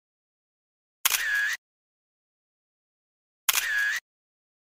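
A camera shutter sound effect, clicking twice about two and a half seconds apart with dead silence around it.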